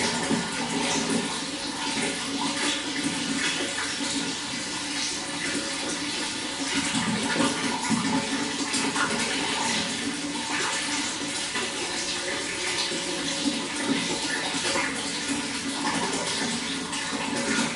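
Running water splashing and gurgling steadily, a continuous flow with no pauses.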